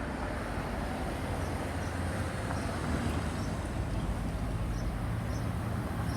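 Road traffic: a bus's diesel engine running steadily as it passes, a low even rumble with no horn sounded.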